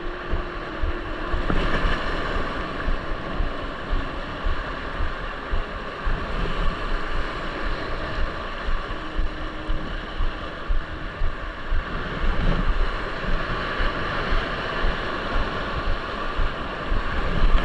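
Strong wind buffeting the microphone in uneven low gusts over the steady rush of heavy surf.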